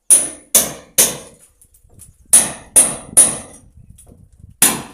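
Hammer blows: seven sharp strikes with a high ringing edge, in two quick runs of three about half a second apart and a single blow near the end.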